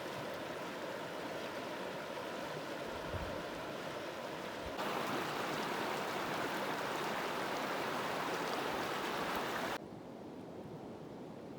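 Flowing river water: a steady rushing that jumps abruptly louder about five seconds in and drops back quieter near the end.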